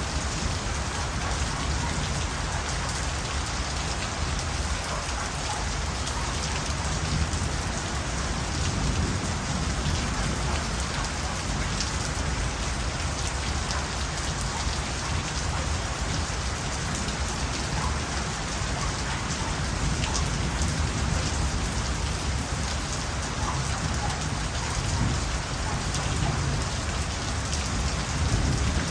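Steady rain falling, an even hiss of drops with scattered individual drip ticks and a low rumble underneath, holding at an unchanging intensity.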